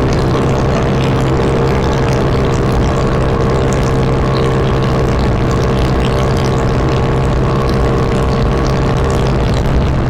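Honda Wave 125 motorcycle's single-cylinder four-stroke engine running at a steady cruising speed while riding, with heavy wind noise on the microphone.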